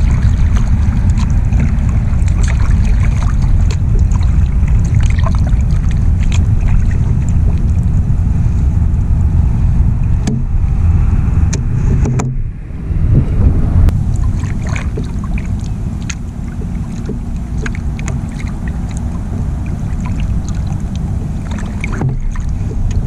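Kayak being paddled: paddle strokes and small water splashes and knocks over a steady low rumble of wind on the microphone. The rumble drops out briefly about twelve seconds in and is quieter over the last third.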